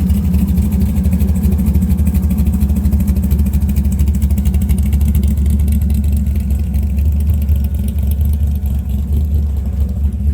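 A car engine running with a loud, steady low rumble and a fast, even pulse.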